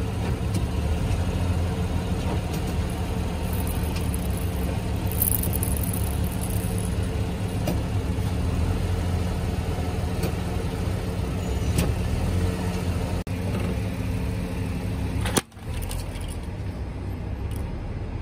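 A car engine idling steadily, with a sharp click and a brief break in the sound about fifteen seconds in.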